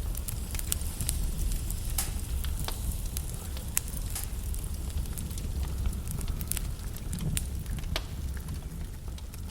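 Wood logs burning in a fireplace, crackling with irregular sharp pops over a steady low rumble of the flames.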